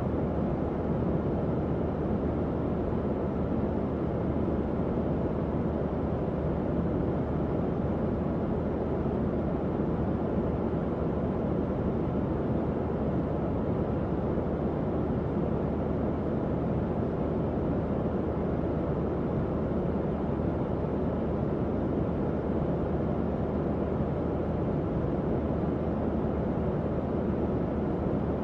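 Tower fan running steadily: an even, low airy whoosh with a faint steady hum beneath it.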